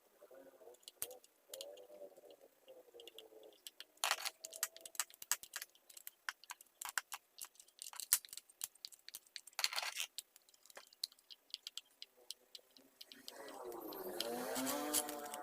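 Rapid, irregular small clicks, taps and scrapes of chainsaw parts and cleaning tools being handled. Near the end comes a louder warbling pitched sound lasting about two seconds.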